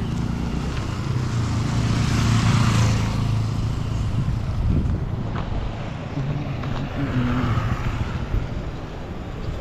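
Road traffic: a motor vehicle passing close, its engine and tyre noise swelling to a peak two to three seconds in, then another vehicle running more quietly later on.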